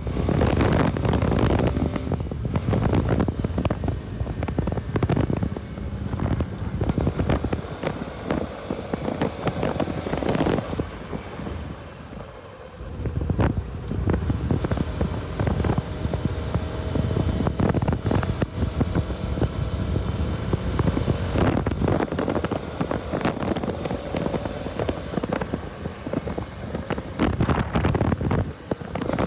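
Bajaj Pulsar RS200 motorcycle riding along, its engine and road noise mixed with heavy wind buffeting the microphone. The noise drops for a moment about halfway through.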